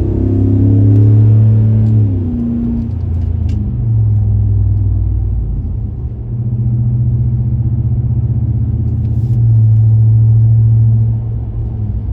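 Exhaust note of a 5.7 L HEMI V8 through a moderate muffler with the resonator deleted, pulling under hard acceleration. The deep drone eases with a falling pitch about two seconds in, builds again and holds loud, then eases once more near the end.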